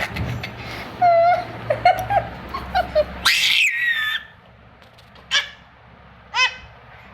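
A series of short, high-pitched whining calls, then one longer, higher squeal, then two brief falling yelps near the end.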